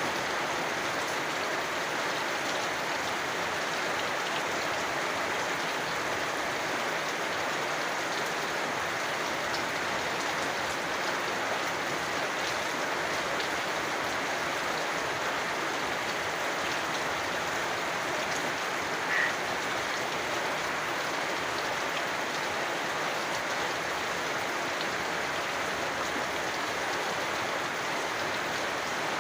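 Steady rain falling, an even hiss with scattered drop ticks. About two-thirds of the way in, one short frog call sounds once.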